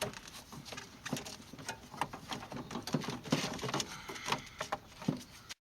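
Irregular light clicks and knocks of tools and parts being handled under a truck's hood, cutting off abruptly near the end.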